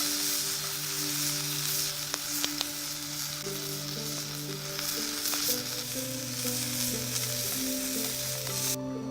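Food sizzling as it fries in a pan, with a few sharp pops in the middle, cutting off abruptly near the end. Background music with held notes plays throughout.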